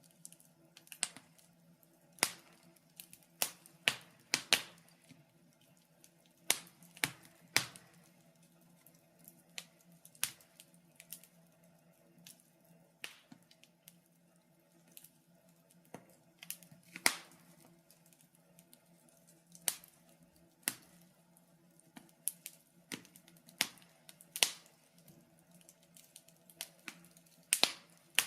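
Wood fire in a fireplace crackling: sharp pops and snaps at uneven intervals, roughly one a second, over a faint steady low hum.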